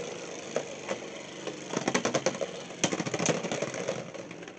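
Beyblade X spinning tops whirring and grinding around a plastic stadium, with a cluster of sharp clicking hits about two seconds in and another near three seconds. The whirr dies down near the end as the battle ends with a top running out of spin.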